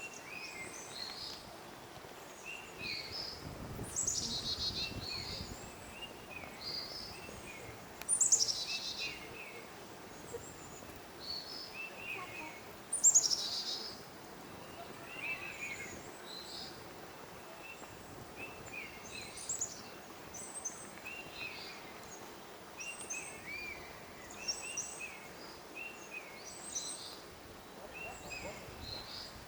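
Several forest birds calling over steady background noise. A few loud, high calls sweep downward in pitch, and many shorter, lower chirps repeat throughout.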